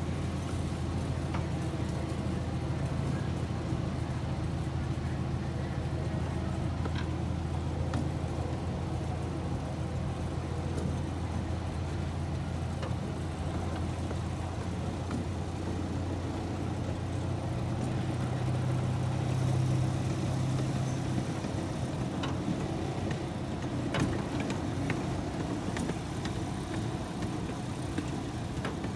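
Miniature railway train running steadily, heard from aboard the coaches: a low engine drone that swells briefly about two-thirds through, with a few faint clicks.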